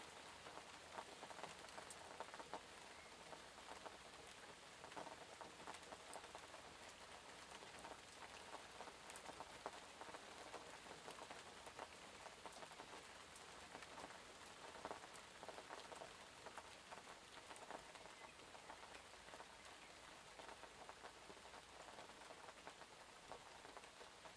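Light rain falling: a faint, steady patter of drops on surfaces, with many small individual drop ticks scattered through it.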